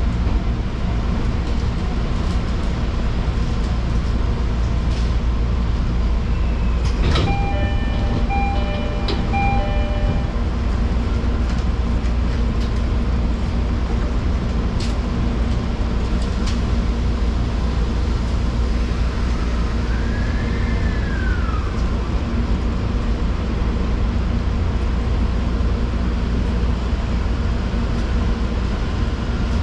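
Electric commuter train running along the track, a steady rumble of wheels, motors and carriage. About a quarter of the way in comes a sharp click followed by a few seconds of short on-off ringing tones. A brief rising-then-falling whine comes later.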